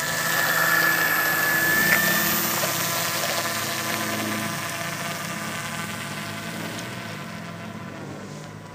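Homemade PVC RC model airplane's motor and propeller droning in flight. It grows louder over the first couple of seconds as the plane passes, then slowly fades as it flies away.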